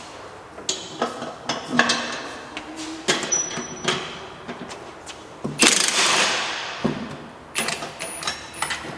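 Metal hand tools clinking and knocking against the car's underside and transmission bolts: a series of sharp clicks and clanks, with one louder clatter about six seconds in that fades out.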